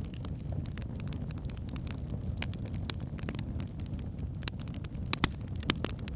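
Wood fire burning in a fireplace: a steady low rumble of flames with irregular sharp crackles and pops from the logs, the loudest pop about five seconds in.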